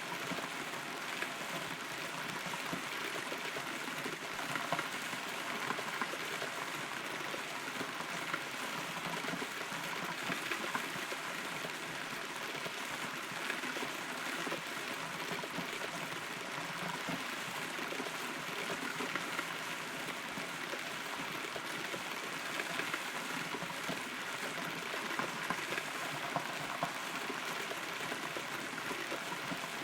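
Rain heard from inside a rotten, hollow tree: a steady patter with many small drop ticks on the wood and surrounding leaves.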